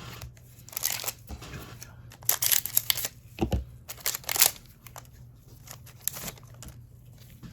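Trading-card packs and cards being handled, crinkling and rustling in several short bursts.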